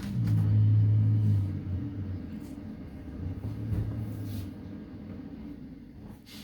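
Garbage truck engine rumbling, loudest at first with a brief swell about four seconds in, then fading away.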